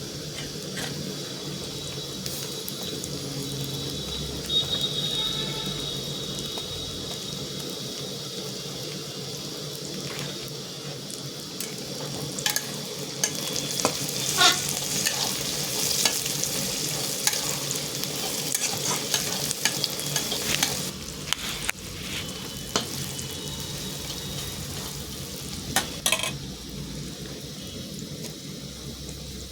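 Food sizzling as it fries in hot oil in a pan, with a spoon scraping and knocking against the pan now and then, mostly through the middle stretch.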